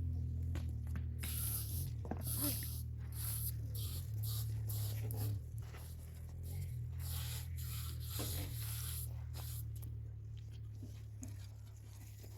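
Repeated short scratchy strokes, about two a second, over a steady low hum; the strokes thin out after about nine seconds.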